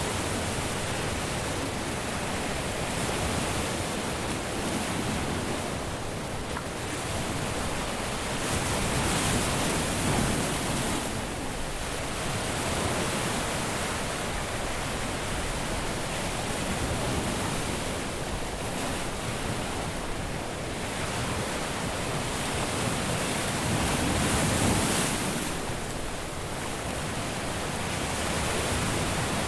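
Caribbean surf washing onto a beach: a steady rush of waves that swells louder about ten seconds in and again near the end.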